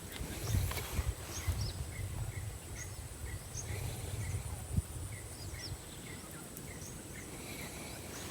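Small animals chirping outdoors at night, short calls repeated about twice a second with higher chirps mixed in, over a faint steady high drone and a low rumble that fades after the first few seconds.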